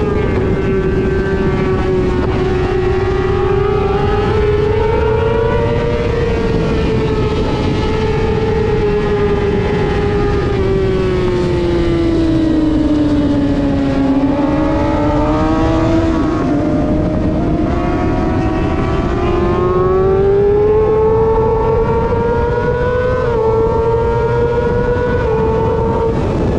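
Race motorcycle engine running at high revs, heard onboard: its pitch sags slowly and climbs again, with a couple of quick steps near the end, over a steady rush of noise.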